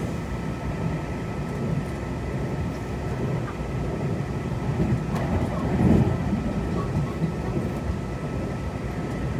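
Running noise inside a Taiwan Railways Tze-Chiang express carriage on the move: a steady low rumble from the wheels and car body, briefly louder about six seconds in, with a faint steady high whine over it.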